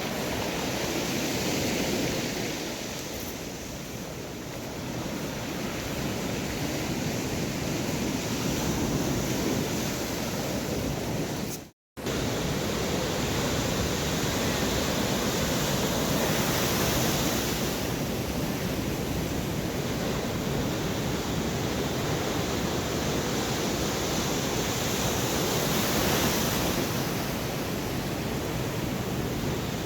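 Storm surf from the sea breaking on the beach: a steady rush of waves that swells and eases every several seconds. The sound cuts out for a moment about twelve seconds in.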